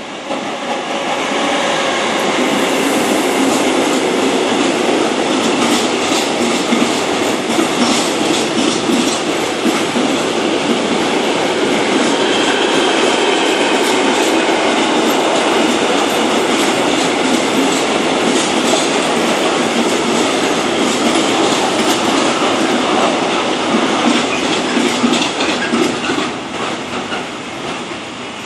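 Electric train passing close by, with a steady rushing rumble and wheels clattering over the rail joints. It builds about a second in, holds for some 25 seconds and fades near the end.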